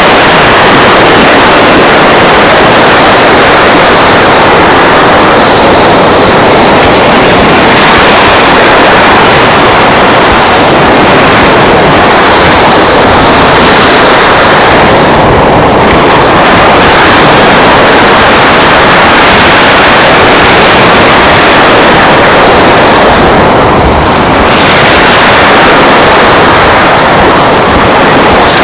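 Loud, steady rushing of wind and surf on a beach, with slight swells and no break.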